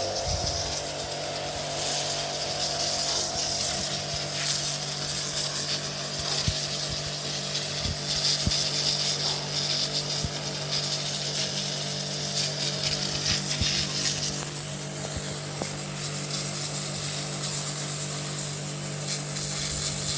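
Pressure washer running steadily, its motor humming under the hiss of the water jet spraying against a wall.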